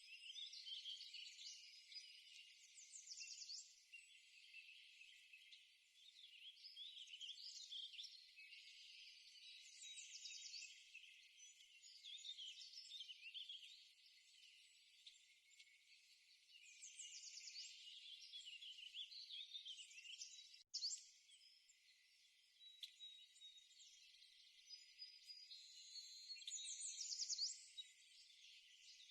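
Faint birdsong: several birds giving high chirps, trills and quick downward-sweeping song phrases every few seconds, with a short click about two-thirds of the way through.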